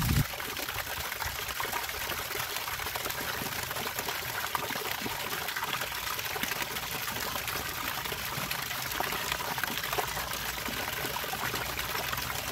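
Running water trickling and splashing steadily, with a brief low thump right at the start.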